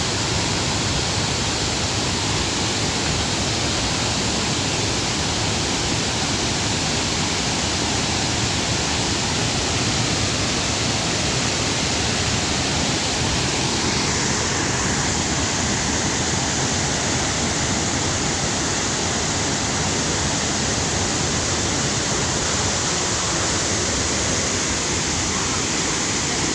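A waterfall in heavy rainy-season flow, its water crashing in a steady, loud rush; the sound shifts slightly in tone about halfway through.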